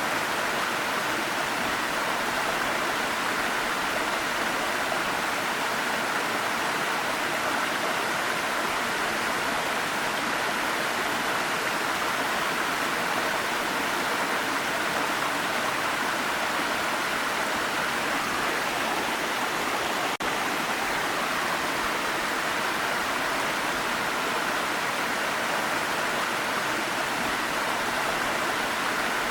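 Steady, even rush of a waterfall, with a momentary dip in level about twenty seconds in.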